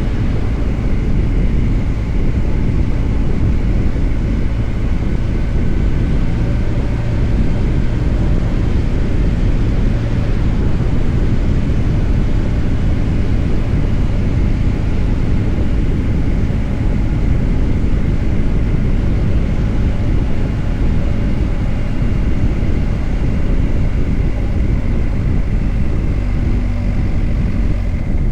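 BMW R 1250 GS Adventure motorcycle riding at a steady pace: the boxer-twin engine's even drone under a heavy, steady rumble of wind and road noise.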